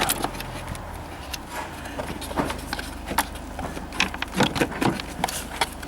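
Irregular knocks and clicks of a plastic battery-box tray being worked and pushed into place in a car's engine bay.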